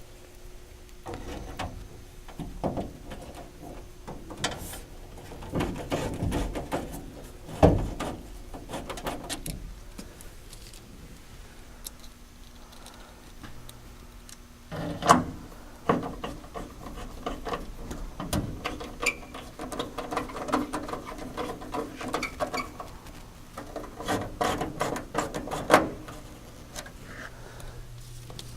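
Hand work on a truck door: scattered knocks, clicks and rubbing as parts are handled and pressed into place, with sharper knocks about 8, 15 and 26 seconds in.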